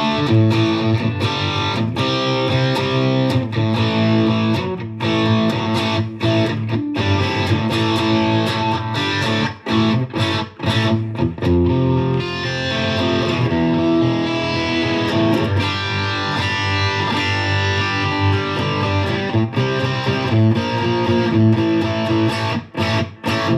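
Fender Player Stratocaster on its bridge pickup, played through a Fender Mustang GTX100 modelling amp on the 'Mythic Boost' preset, a crunchy overdriven tone. Electric guitar picking and strumming runs without a break.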